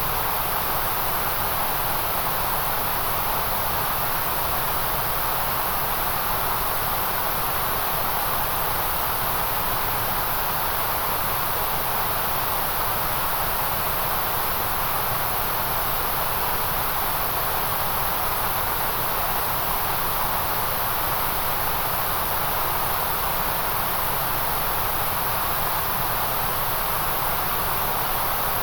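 A steady, unchanging white noise hiss with no breaks or changes, shaped so that it is fullest in the middle and with a bright hiss on top.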